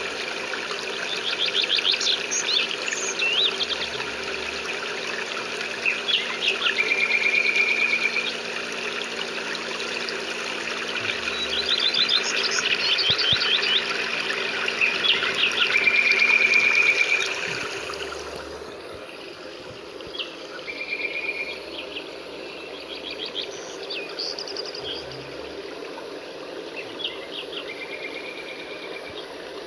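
Songbirds chirping and trilling over a steady hiss of rain, a nature soundscape. About two-thirds of the way through, the whole soundscape becomes quieter and the birds fainter.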